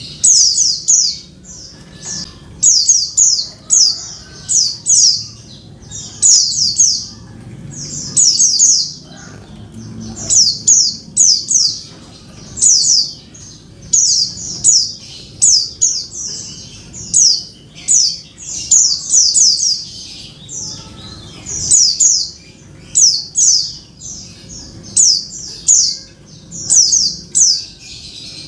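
Female white-eye (pleci) calling: short clusters of two to four quick, high, falling chirps, repeated every second or two. It is the call played to prompt a silent male white-eye to start singing.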